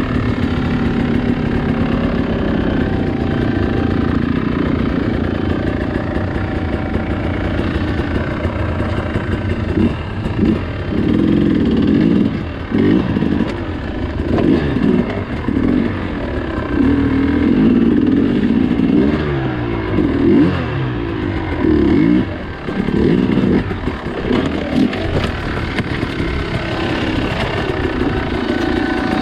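Dirt bike engine running steadily, then revving up and dropping back again and again, roughly once a second, as the throttle is worked hard through the middle of the stretch, before settling back to a steady run.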